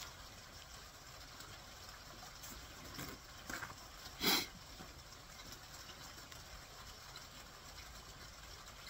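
Faint mouth sounds of someone chewing a piece of honey-glazed barbecued squirrel meat, with one short, louder breathy sound about four seconds in.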